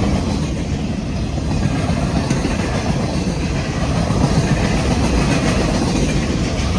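Union Pacific freight train rolling past, a steady loud rumble of cars on the rails.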